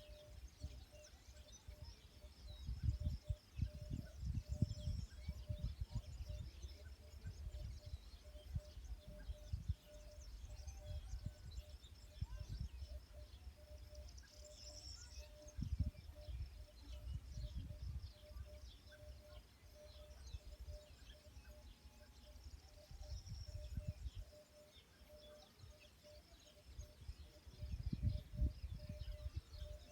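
Outdoor nature ambience: small birds chirping, with a faint, evenly repeating call throughout and gusts of low rumble coming and going.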